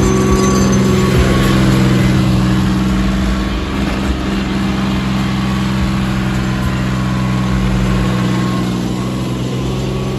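John Deere tractor diesel engine running loud and steady under load, pulling in a tractor tug-of-war.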